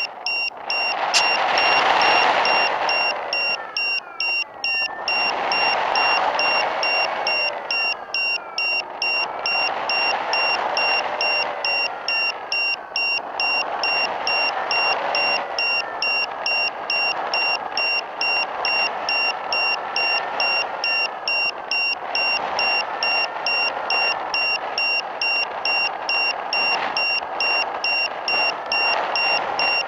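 Loud static hiss from an analog FPV video receiver that has lost the aircraft's signal, with a steady high electronic tone broken by short regular dropouts and a faint whine wavering up and down in pitch.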